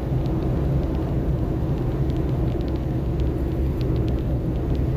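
Old pickup truck driving, a steady engine and road rumble heard from inside the cab, with a few faint clicks.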